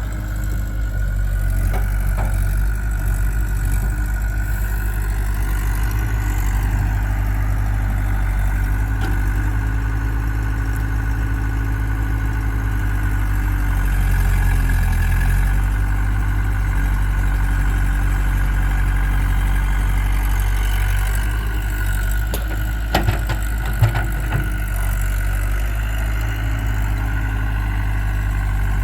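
Diesel engine running steadily at low revs, from the tractor and JCB loader at work. About two thirds of the way through, a few short sharp knocks sound over it.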